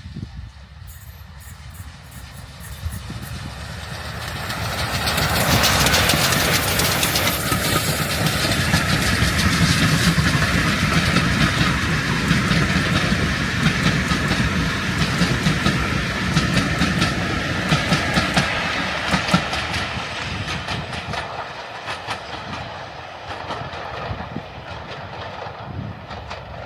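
Steam train hauled by two pannier tank locomotives passing by, its wheels clattering over the rail joints. It grows louder over the first few seconds, stays loud while the train goes past, then fades away near the end.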